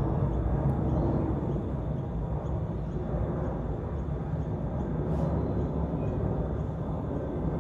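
Emirates Airbus A380 jet airliner in flight overhead: a steady deep engine rumble that eases slightly. A faint high chirp repeats about twice a second through it.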